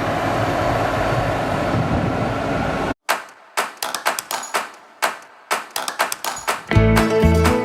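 Steady engine and wind noise of a working tractor that cuts off abruptly about three seconds in. Plucked guitar notes follow, and near the end a fuller country-style backing with a repeating bass line joins in.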